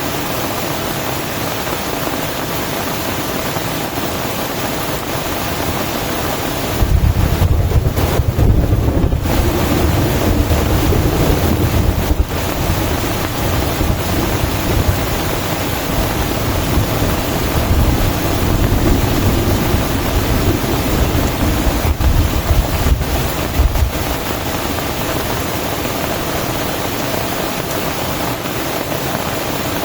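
Heavy rain falling steadily. From about 7 s to about 24 s a long, low rumble rises over it and then fades back to the rain alone.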